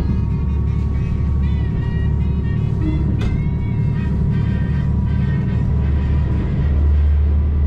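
Low, steady rumble of a KiHa 185 diesel railcar running, heard from inside the passenger cabin, growing louder near the end as the train enters a tunnel. Music plays over the rumble.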